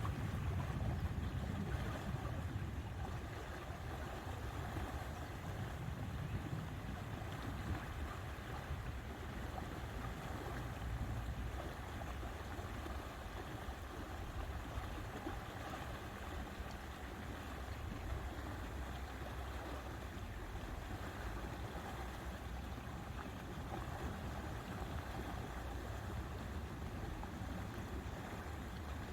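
Steady outdoor ambience of wind and lake water, a low rumble under a soft even hiss, slightly stronger in the first few seconds.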